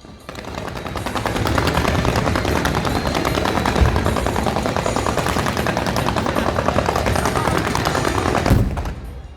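Fireworks going off in very rapid succession, a dense crackling rattle like machine-gun fire that builds over the first second and stops abruptly near the end with a final louder bang.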